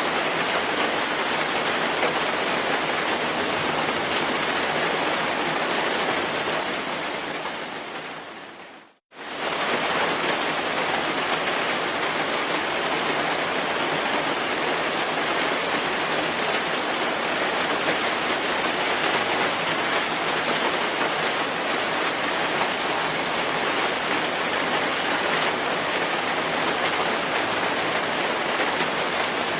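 Steady, dense rainfall. About seven seconds in it fades down to a moment of silence, then cuts straight back in at full level, like a loop splice in the recording.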